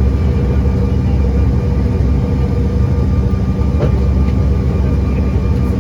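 Steady aircraft cabin noise heard from a window seat of an American Eagle regional jet: a deep engine rumble with a few steady humming tones over it.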